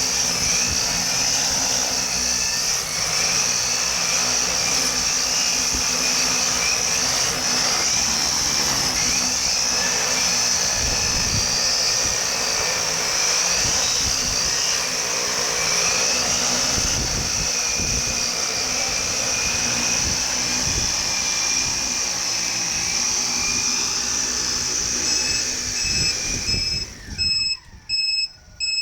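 Multirotor drone's electric motors and large propellers running in a steady high whine, with wind gusting on the microphone. Near the end the motor sound stops and a series of short electronic beeps from the copter starts, about two a second.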